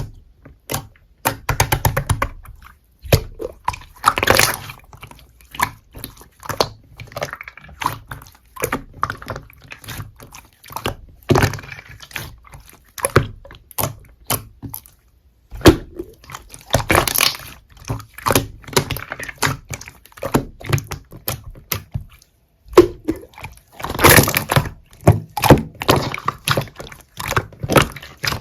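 Slime being squeezed, stretched and pressed by hand, making a continuous run of wet sticky clicks, pops and squishes.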